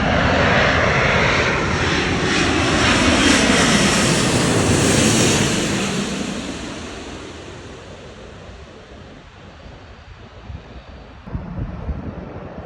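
Jet airliner passing low overhead: a loud engine roar for about six seconds that then fades away as the aircraft moves off.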